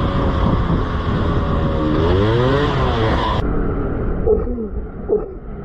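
Motorcycle engine running under way with heavy wind noise, its pitch rising and falling once about two seconds in. About three and a half seconds in, it cuts off suddenly to a quieter scene with scattered faint sounds.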